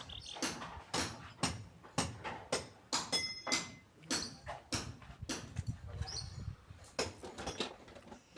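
Repeated sharp knocks, about two or three a second, with a brief ringing tone a little after three seconds in.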